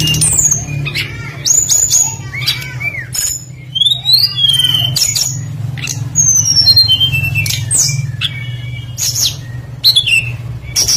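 Small songbirds calling rapidly: quick falling whistles and sharp chips, one after another, over a steady low hum.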